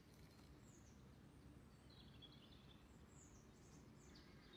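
Near silence: quiet woodland ambience with a few faint, distant bird chirps.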